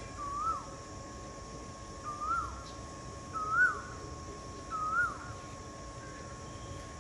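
A bird calling: a short whistled note that rises and then drops, repeated four times about every one and a half seconds. A faint steady high hum runs under it.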